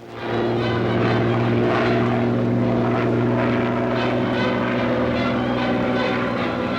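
Propeller aircraft's piston engine droning steadily at one pitch.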